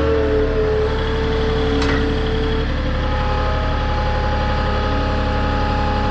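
Truck-mounted forklift's engine running steadily, with a short click about two seconds in.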